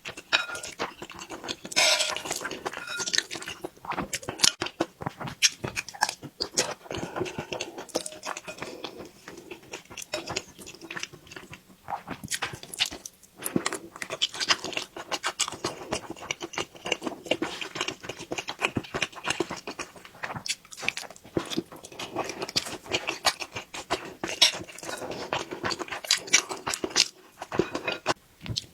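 Close-miked eating sounds: a person chewing and biting a mouthful of soft, chewy braised beef tendon and crisp octopus with rice, giving a steady run of irregular wet clicks and crunches.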